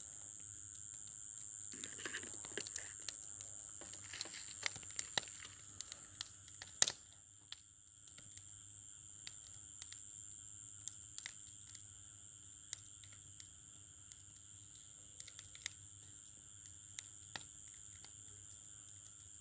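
Wood bonfire crackling, with scattered sharp pops over a steady hiss. The crackling is densest a couple of seconds in, and the loudest pop comes about seven seconds in.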